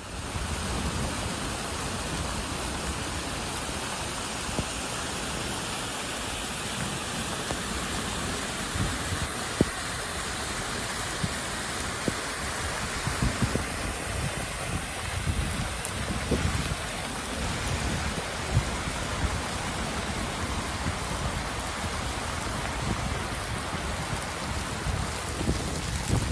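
Heavy thunderstorm downpour: a steady, dense hiss of rain falling on a cobbled road and fields, with irregular low bumps that come more often in the second half.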